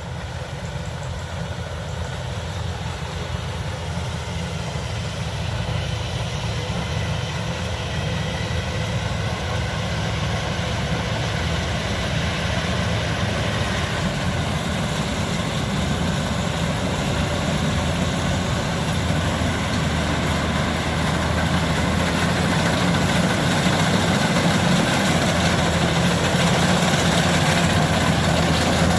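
Kubota DC-105X combine harvester's diesel engine running steadily, growing gradually louder.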